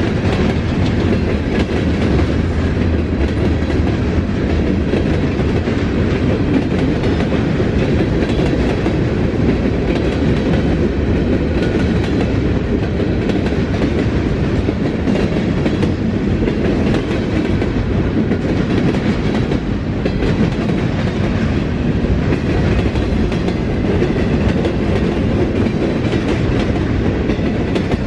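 Norfolk Southern freight train's cars rolling past close by: a steady, loud rumble of steel wheels on the rails with continuous clatter over the rail joints.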